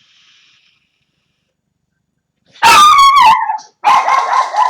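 A dog barking twice, loud and close: a falling yelp about two and a half seconds in, then a longer bark held at one pitch.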